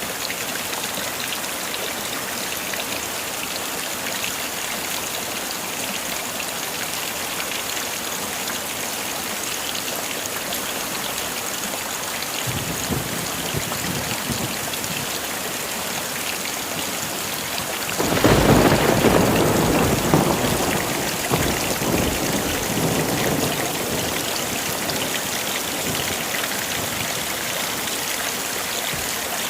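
Heavy rain falling steadily, with a low roll of thunder about halfway through and a louder clap of thunder a few seconds later that rumbles on and slowly fades.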